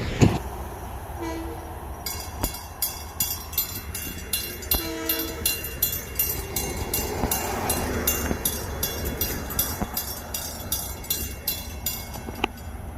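Railroad grade-crossing bell starting to ring about two seconds in and ringing steadily and rapidly as the crossing activates for an approaching train. Two short, distant train horn blasts sound, one just before the bell starts and one a few seconds later.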